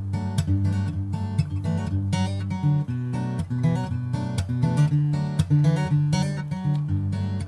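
Background music: acoustic guitar arrangement, strummed and plucked.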